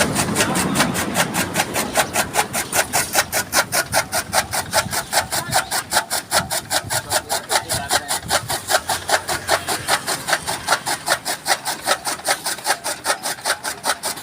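Chaff cutter's blades chopping green maize stalks into fodder: a steady, rapid chopping of about five cuts a second.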